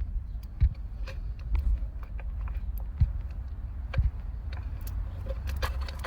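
Scattered clicks and knocks, about six of them, of tools and parts being handled, over a steady low rumble.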